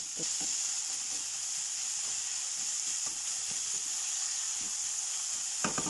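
Ground beef and sliced onions sizzling in hot cooking oil in a frying pan while being stirred: a steady frying hiss, with a few short clicks near the end.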